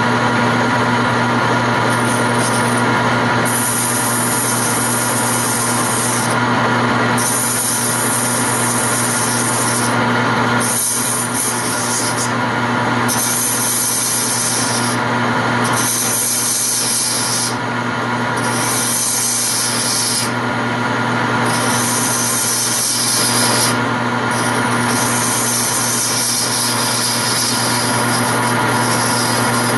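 Wood lathe running with a steady motor hum while a turning tool cuts the spinning wooden chair leg, the hissing cut coming and going in passes of a second or two.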